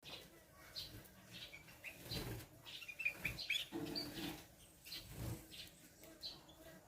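Small cage birds of a mixed aviary colony giving short, scattered high chirps, with wing flapping.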